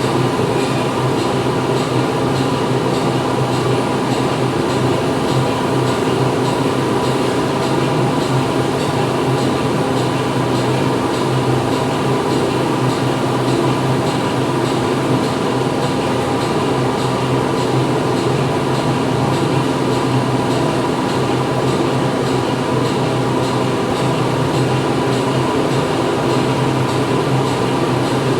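Factory machinery running continuously: a dense, steady industrial din with several constant hums layered through it.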